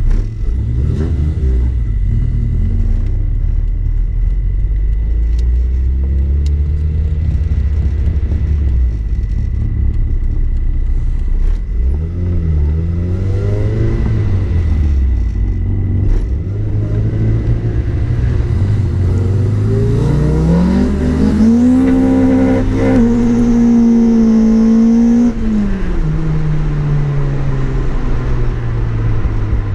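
Toyota Corolla's 20-valve 4A-GE four-cylinder engine driving and accelerating through the gears. About two-thirds of the way in the revs climb steeply, hold high for about four seconds, then fall away.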